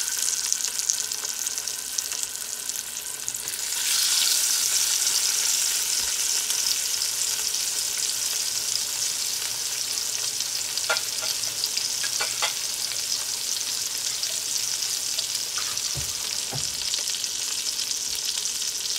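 Salmon fillets searing in hot butter and oil in a cast-iron skillet: a steady sizzle that gets louder about four seconds in.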